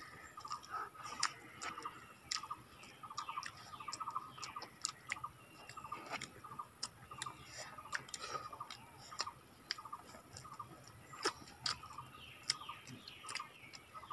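Close-up eating sounds: irregular wet mouth clicks and lip-smacks of chewing, from people eating rice and fried chicken by hand.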